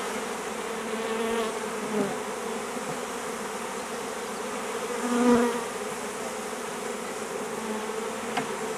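Honey bees buzzing around an opened hive of a newly caught swarm, a steady many-winged hum with occasional louder swells as individual bees pass close by.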